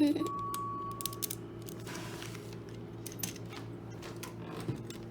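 LEGO bricks clicking and rattling as pieces are handled and pressed together, a series of small sharp clicks over a steady low hum.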